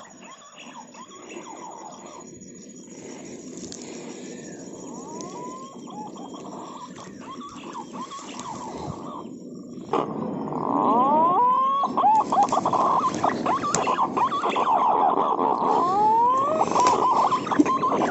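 Many birds calling with short whistled notes that slide up and down in pitch, becoming suddenly louder and busier about ten seconds in, over a thin, steady high-pitched buzz.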